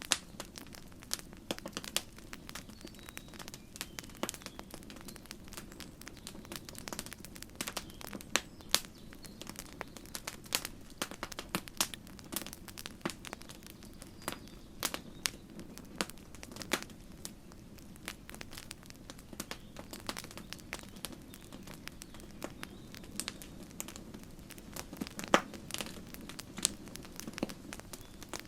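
Campfire crackling: burning wood giving irregular sharp snaps and pops over a steady low rumble of the fire, with one louder pop near the end.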